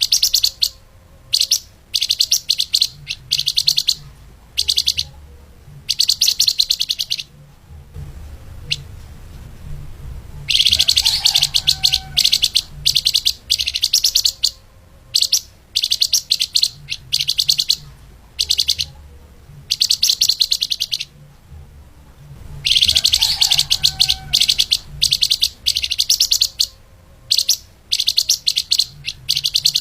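Flamboyan (lemahan) songbird singing a fast, tightly packed, high-pitched song in repeated bursts of a second or two, with two longer runs of several seconds.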